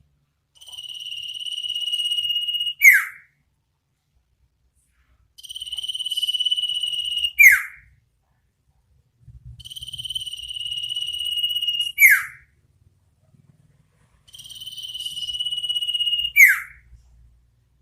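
An iora (sirtu/cipoh) calling in its "ngetir nyipow" pattern: a high, steady trilled whistle held about two seconds and growing louder, ended by a sharp down-slurred "cipow" note. The phrase comes four times, a couple of seconds apart.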